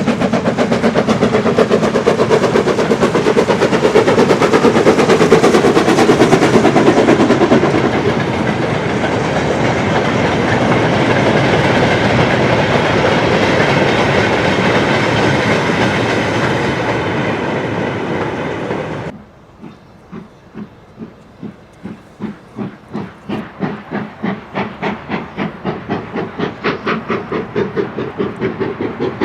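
BR Standard Class 9F 2-10-0 steam locomotive working hard with a goods train, its exhaust beats coming in quick, loud succession. About two thirds of the way through it cuts abruptly to a quieter, more distant passage of exhaust beats that grow louder and quicker.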